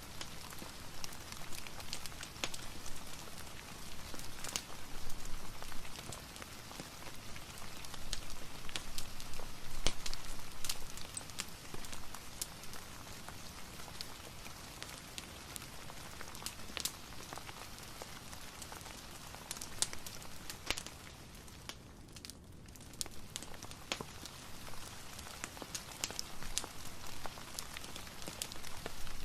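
Steady rain hiss mixed with the scattered crackles and pops of a wood fire in a fireplace. The hiss thins briefly about three quarters of the way through.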